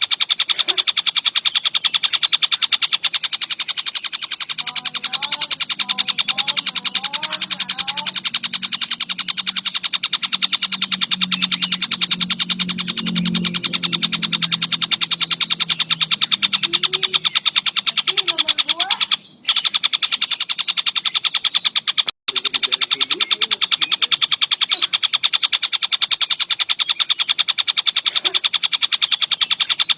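Tengkek buto kingfisher calling non-stop in a fast, unbroken, high-pitched chatter of many notes a second. The chatter breaks off briefly twice, a little after the middle.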